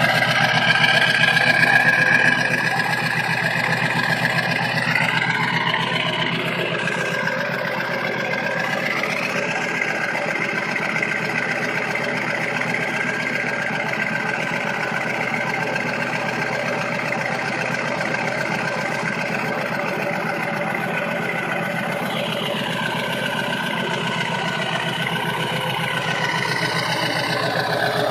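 1999 7.3 L Power Stroke V8 turbodiesel idling after a cold start, exhaust through a 4-inch stack. Its pitch drops a few seconds in, holds steady, and rises again over the last several seconds.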